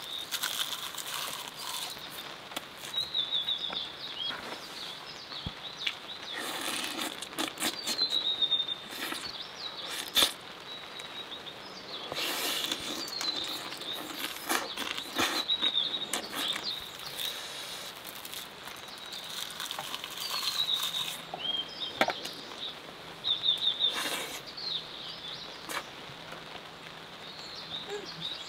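Close chewing and crunching of roasted seaweed wrapped around rice, in bursts every few seconds, while birds chirp again and again with short high falling chirps.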